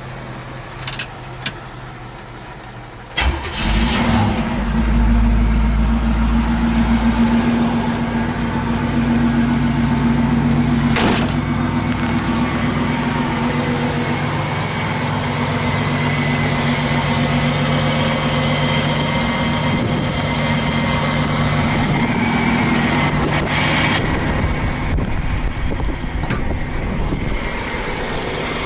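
1963 Chevrolet Impala's engine firing up suddenly about three seconds in, after a few light clicks, then running at a steady idle. It starts now that its fuel hose has been replaced.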